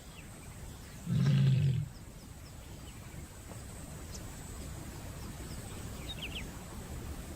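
A lioness in heat gives one short, low call about a second in, the call that draws males to mate. Afterwards a few faint high chirps sound over a low steady background.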